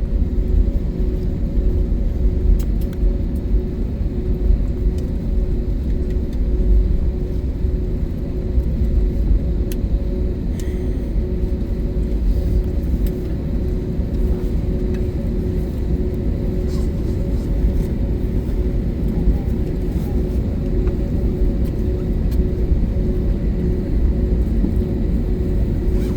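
Airbus A321neo cabin noise: a steady low rumble with a steady two-tone engine hum running under it.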